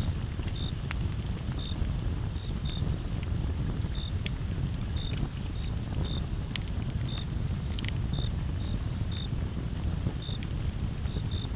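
Campfire crackling, with sharp pops scattered through a low steady rumble of burning wood. Crickets chirp in short high notes about once or twice a second over a steady high insect hum.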